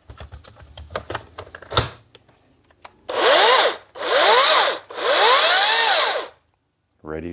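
A few handling clicks and knocks, then a Greenworks 40V battery chainsaw's electric motor and chain run three times, each time spinning up and winding back down. It is a free-running test of a newly fitted chain that has been retensioned after being too loose.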